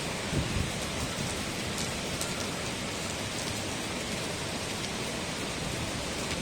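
Steady rain falling: an even hiss with scattered individual drop ticks, and a couple of soft low thumps about half a second in.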